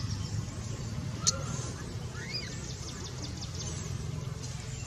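Outdoor background noise with one sharp click about a second in, then a couple of short, high, arched animal chirps.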